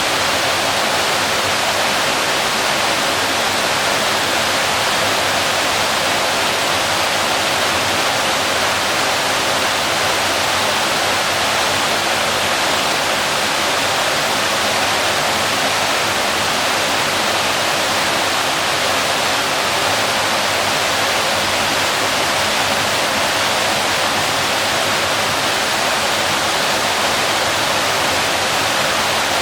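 Waterfall crashing steadily: an even, unbroken rush of falling water with most of its energy in the middle and upper range and little low rumble.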